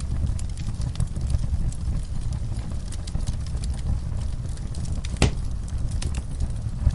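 Crackling wood fire: a steady low rumble with many small snaps and one louder pop about five seconds in.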